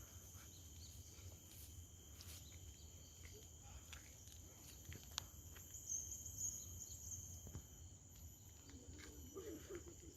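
Faint, steady high-pitched drone of insects such as crickets or cicadas, with scattered small clicks and a brief chirp about six seconds in.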